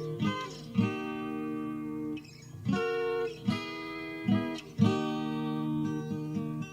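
Acoustic guitar strumming chords in a song's instrumental intro, each strum ringing on.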